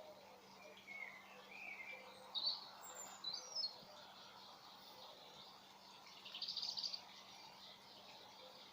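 Birds chirping faintly, a few short calls in the first half and a brief trill near the end, over a steady low hum.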